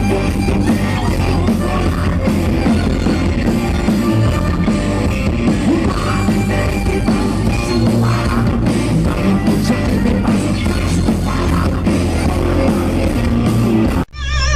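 Loud rock music playing, cutting off abruptly near the end.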